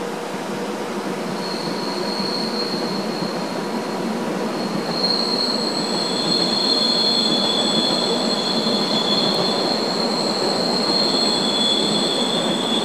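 Rhaetian Railway metre-gauge train rolling across a curved viaduct: a steady rumble of wheels on rail that grows louder as it comes on. Long high-pitched wheel squeal sets in about a second and a half in and becomes stronger and fuller from about five seconds.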